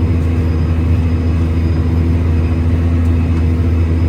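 Farm tractor's diesel engine running steadily at constant speed, a low, even drone.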